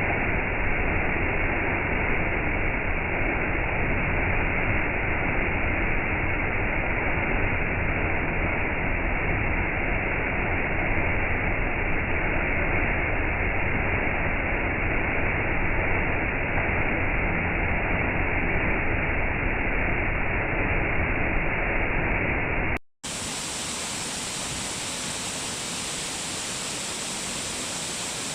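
Steady rushing of a waterfall, full and deep-toned. About 23 seconds in it breaks off for a split second and resumes quieter and brighter, with much less low rumble, as a different stretch of falling water.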